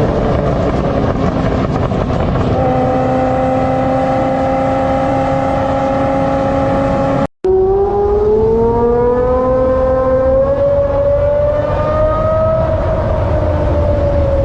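Performance car engine running loud at steady held revs. After a brief cut about halfway through, an engine note climbs slowly and then falls away again.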